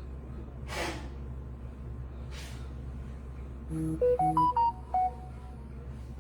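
A short electronic chime of a few quick notes stepping upward, a little past the middle, over a steady low hum. Two brief swishes come earlier.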